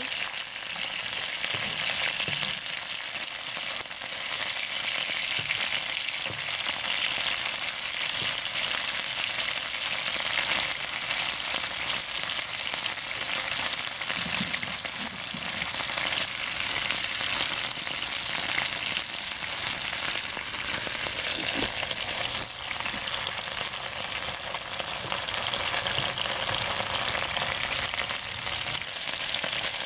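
Chicken pieces frying in hot oil in a wok: a steady sizzle, with occasional scrapes and taps as a slotted spatula and spoon turn the pieces.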